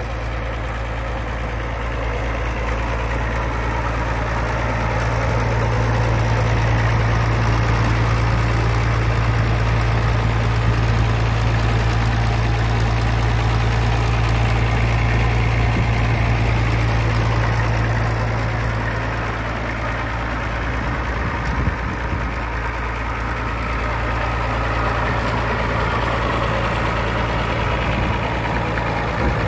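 Fordson E27N tractor's Perkins P6 six-cylinder diesel engine idling steadily, somewhat louder through the middle stretch.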